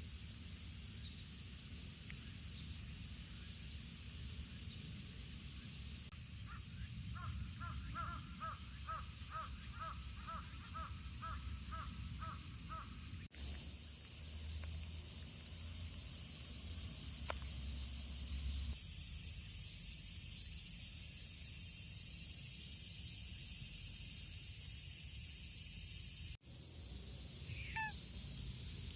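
Outdoor ambience with a steady high hiss. A bird calls about twice a second for several seconds, and there are short chirps near the end. The sound cuts off abruptly twice.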